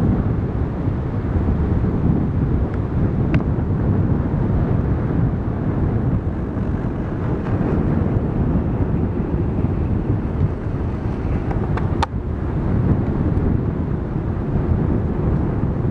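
Strong wind buffeting the microphone, a steady low rumble, with a sharp click about three seconds in and another about twelve seconds in.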